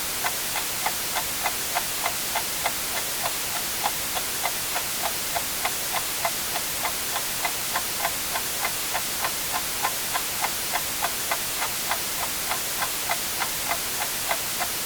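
Clock ticking quickly and evenly, about three to four ticks a second, over a steady hiss of white noise.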